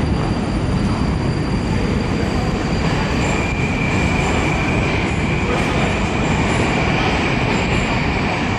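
Steady loud rumble of a moving train, with a thin high squeal joining about three seconds in.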